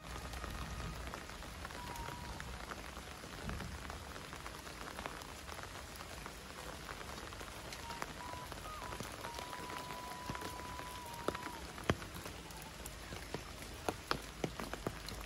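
Steady rain falling, an even hiss, with sharp single drops landing close by, more of them near the end.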